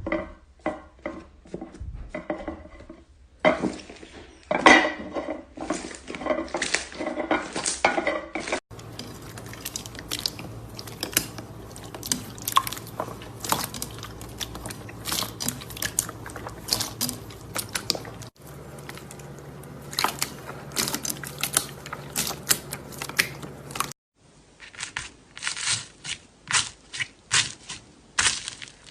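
Slime being squished and poked, a busy run of crackling and popping clicks, in several short clips that cut abruptly from one to the next.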